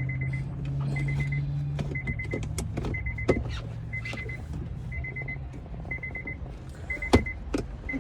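Knocks and clicks of plastic trim being handled and pushed into place in a 2003 Honda Accord's center console, the loudest knock about seven seconds in. Behind them a short electronic beep repeats about once a second, and a low hum fades out after the first two seconds.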